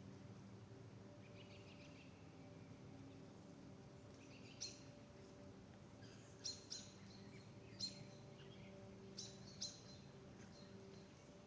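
A small bird giving short, sharp, high-pitched chip calls, about six of them at irregular intervals, over a faint steady low hum.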